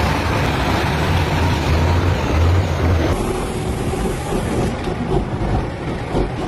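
Truck engine running with rumbling road noise. About three seconds in, the sound cuts abruptly to a different engine recording.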